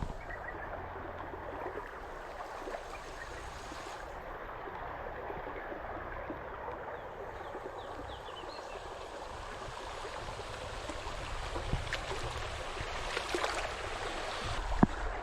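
A stream flowing over rocks: a steady rush of water, with a couple of faint knocks near the end.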